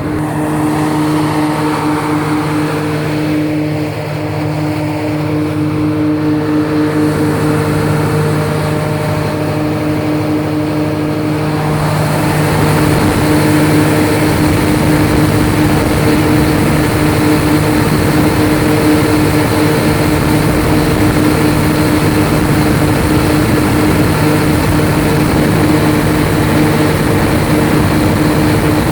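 Large 1250 kVA Gesan diesel generator set running at steady speed with a deep, even hum and engine noise. About twelve seconds in it grows a little louder and harsher, then holds steady.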